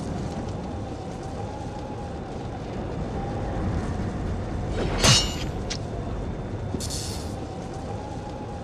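Steady rumble of a moving train, with a faint wavering tone over it. A sharp hit comes about five seconds in, and a short hiss comes near seven seconds.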